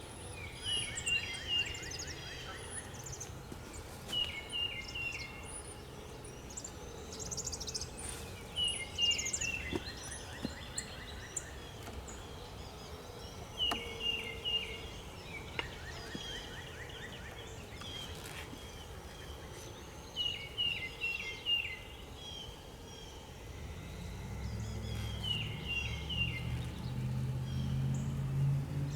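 A songbird singing outdoors: a short phrase of three or four quick falling notes, repeated about every five seconds, with a faint low hum beneath that grows louder near the end.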